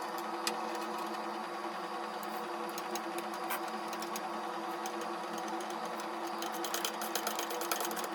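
A steady mechanical hum runs throughout, with scattered light clicks and taps, most frequent near the end, as small metal parts are handled and fitted during engine reassembly.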